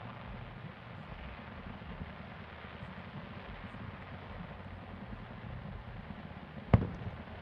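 One sharp firework bang near the end, followed by a couple of fainter crackles, over a steady low rumble and hiss.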